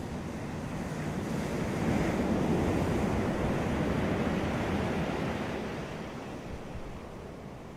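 Ocean surf: a wave swells and breaks about two seconds in, its wash of noise holding for a few seconds and then easing off as it recedes.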